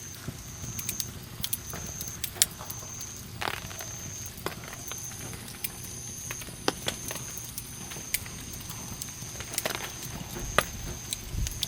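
Wood campfire crackling, with irregular sharp pops and snaps over a low steady rumble. A faint high tone pulses on and off about once a second behind it.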